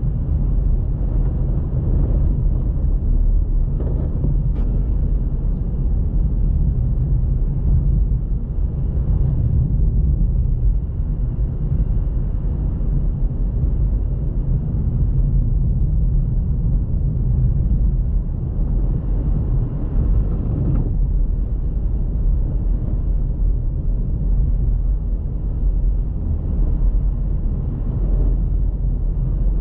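Car driving on a snow-covered road: a steady low rumble of engine and tyre noise, with a few brief swells.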